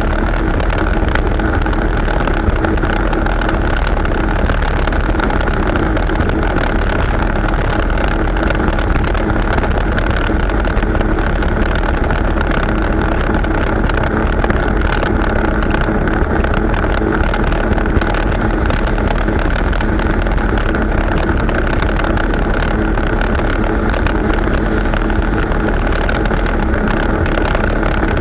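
Jet ski engine running steadily at speed, a constant drone with a steady whine held at one pitch.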